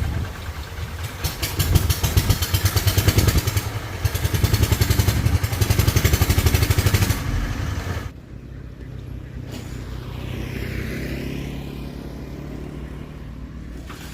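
A motor vehicle engine running hard close by, with a fast pulsing beat, then dropping suddenly to a quieter steady hum about eight seconds in.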